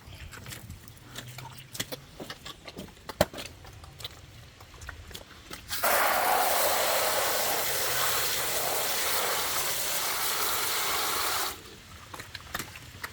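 Water running in a steady rush for about six seconds, starting abruptly about six seconds in and cutting off suddenly, while pig bowls and buckets are being cleaned. Before it come a few scattered knocks and clicks.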